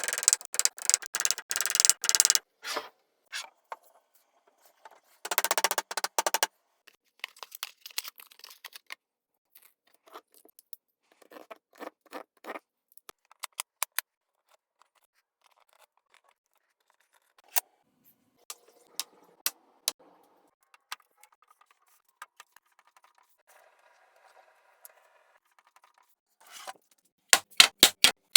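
Workshop hand-work noises: scattered sharp clicks and taps of wood and tools being handled, with two short bursts of scraping in the first several seconds.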